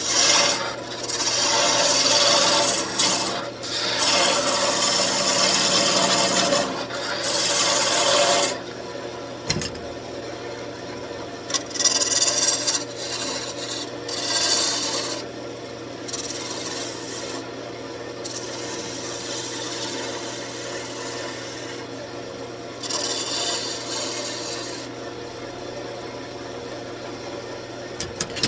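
Wood lathe spinning a wooden workpiece with 320-grit sandpaper held against it, giving a rasping rub in passes over the lathe's steady hum. The loudest pass runs for the first eight seconds or so, with shorter ones at about twelve to fifteen seconds and twenty-three to twenty-five seconds; in between, the lathe runs with only light contact.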